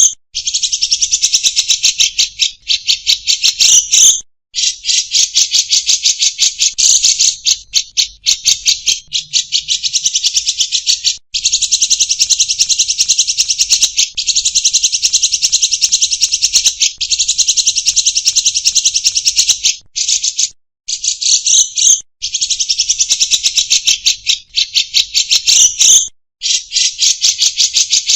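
Caged songbirds singing loud, rapid buzzing trills, each run lasting several seconds with brief breaks between them.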